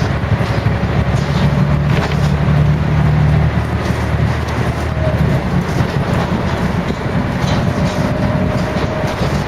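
Scania L113 single-deck bus running under way, with a steady low engine drone and road noise. The engine note changes about four seconds in.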